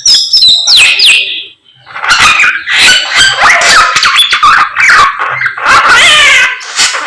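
Samyong songbird singing loudly in a fast, varied stream of chirps, whistles and harsh chattering notes, breaking off briefly about a second and a half in before carrying on.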